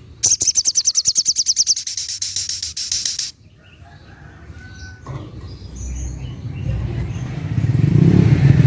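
Sogok ontong (little spiderhunter) singing its 'tembakan' burst, a fast, evenly spaced high trill that lasts about three seconds. Fainter scattered sounds follow, and a low rumble builds near the end.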